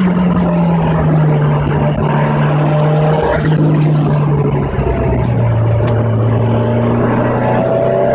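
Ford Sierra Cosworth Group N car's turbocharged 2.0-litre four-cylinder engine running hard. Its note sinks slowly, breaks briefly about three seconds in, settles lower and starts rising again near the end.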